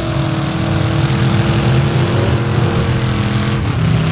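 Truck engine running hard at steady high revs, its note dropping suddenly about three and a half seconds in.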